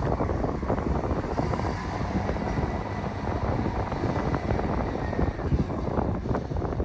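A machine engine running steadily, mixed with wind rumbling on the microphone.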